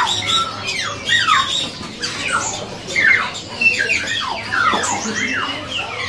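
Many caged birds calling at once: a busy mix of harsh squawks and short downward-sweeping whistled calls, overlapping and repeating every fraction of a second.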